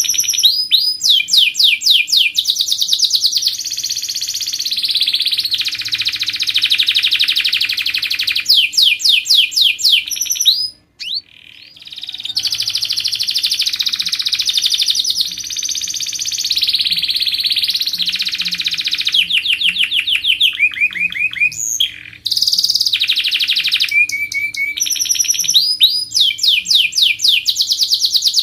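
Domestic canary singing a long, loud song of fast repeated trills and rolling phrases, breaking off briefly twice.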